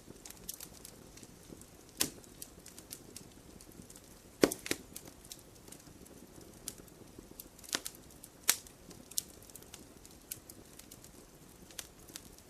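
Fireplace fire crackling, with irregular sharp pops over a low steady hiss. The loudest pop comes about four and a half seconds in.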